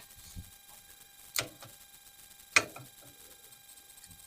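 Two sharp clicks about a second apart, with a few fainter ticks, from handling the rifle and its newly mounted optic, over a faint steady hum.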